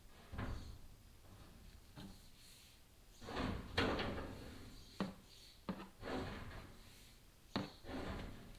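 Chimney inspection camera knocking and scraping against the inside of the flue as it is lowered: a string of sharp knocks with longer rasping scrapes between them, the loudest scrape about halfway through.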